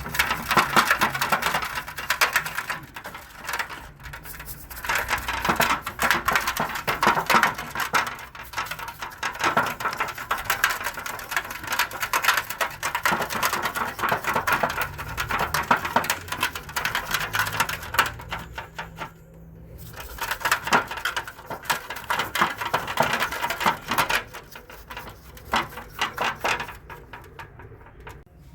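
Rapid scratching and scrubbing in long stretches with short pauses, typical of dirty alternator parts being brushed clean.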